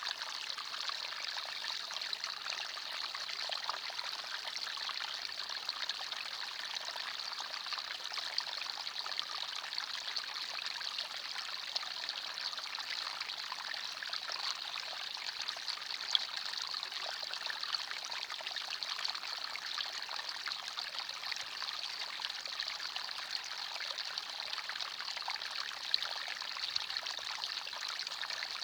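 Small forest stream running and trickling steadily over stones, a continuous bubbling water sound.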